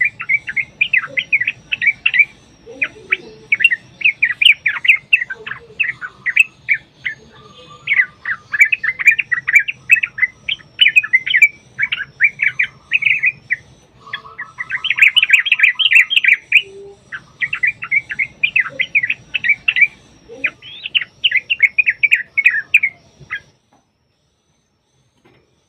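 Yellow-vented bulbul (trucuk) singing a long, fast, rolling chatter of bubbly notes that runs on almost without a break. It stops abruptly near the end.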